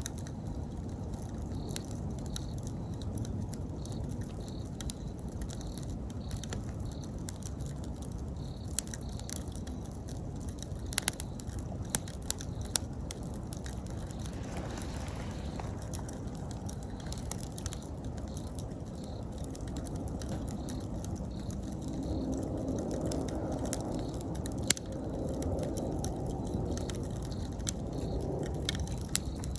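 Wood campfire crackling, with a low steady rustle of flames and occasional sharp pops, several close together a little before the middle. Autumn insects chirp in a regular rhythm behind it.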